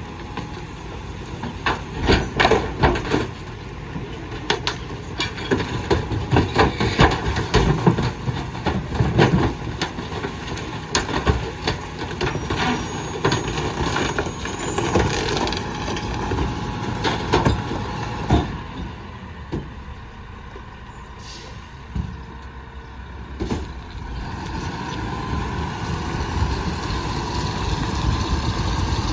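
McNeilus rear-loader garbage truck on a Mack MRU chassis packing bulky trash: the packer blade crushes the load with many sharp cracks and snaps over the running truck. About two-thirds of the way through the crunching stops, and a steadier sound from the truck builds slowly toward the end.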